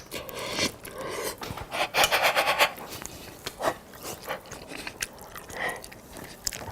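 Scraping and clicking of a utensil in a dish of spaghetti, with a louder, longer rasping scrape about two seconds in.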